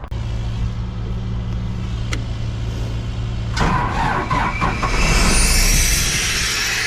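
Engine idling steadily, then about three and a half seconds in a loud hissing rush starts and grows stronger, the sound of an abrasive blaster being opened up.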